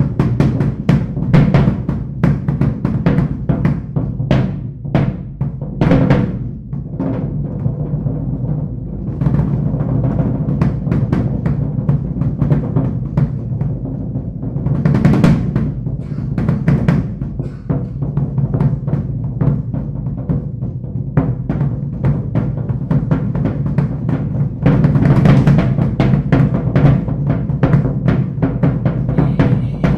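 Drum kit played live with fast rolls and dense strikes, swelling louder about halfway through and again over the last few seconds.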